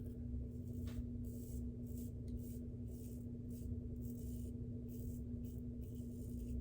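Shavette razor with a half DE blade scraping through lathered stubble in an irregular series of short strokes, over a steady low hum.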